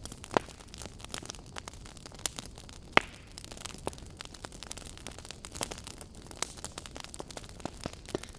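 Campfire burning with a steady low hiss and irregular crackles and pops of burning wood, the loudest snap about three seconds in.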